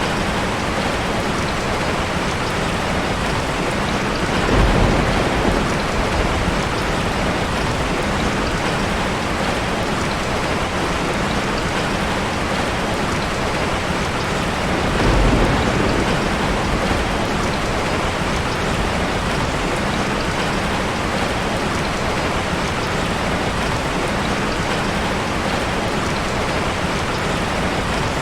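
Steady, heavy rainfall, a dense even hiss of drops on surfaces. Twice, about four and fifteen seconds in, a brief low rumble swells under it.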